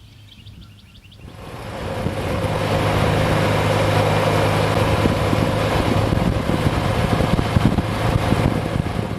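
A motor vehicle's engine and road noise rise sharply about a second in and stay loud and steady for several seconds before falling away near the end. Faint bird chirps come just before it.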